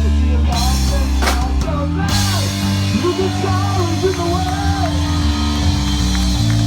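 Punk rock band playing, with drum kit, bass and guitar and a singing voice. There are cymbal crashes in the first couple of seconds.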